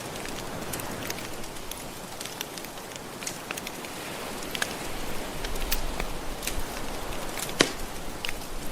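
Wood fire crackling with scattered sharp pops, the loudest about seven and a half seconds in, over a steady wash of gentle surf that swells a little after about five seconds.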